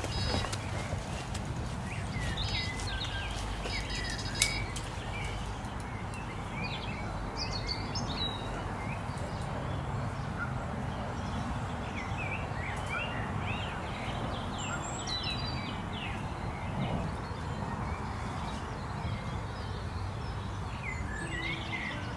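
Small birds chirping and singing, many short calls and trills scattered throughout, over a steady low rumble, with one sharp click about four seconds in.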